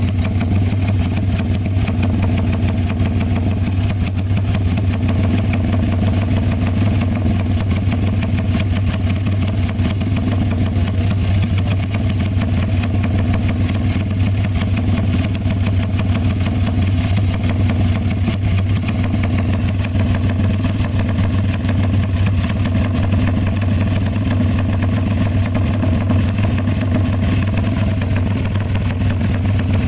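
Motorcycle engine idling steadily through a BMS X-one aftermarket exhaust fitted with a quarter-size baffle, with an even, unchanging exhaust note and no revving.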